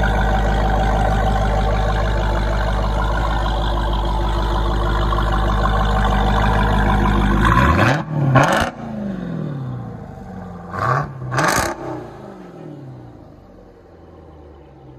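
Jeep Grand Cherokee Trackhawk's 6.2 L supercharged V8 running through a Corsa Xtreme 3-inch cat-back exhaust with quad tips. It holds a steady loud drone for several seconds, then the revs sweep up and down twice and the sound fades.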